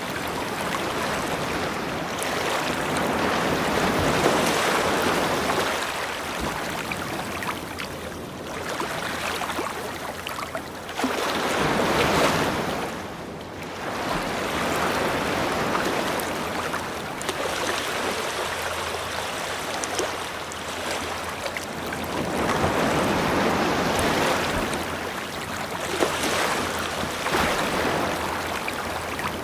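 Ocean surf breaking on a beach, a rushing wash that swells and falls back every few seconds. The loudest wave breaks about twelve seconds in.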